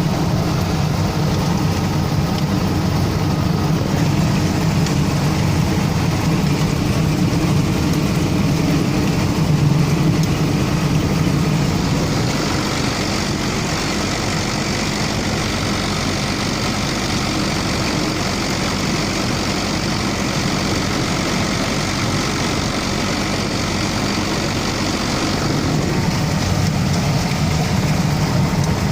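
UTB DTC tractor's diesel engine running steadily under load while working a Bodini corn harvester. About twelve seconds in the low rumble eases and a higher hiss comes up, and it shifts back near the end.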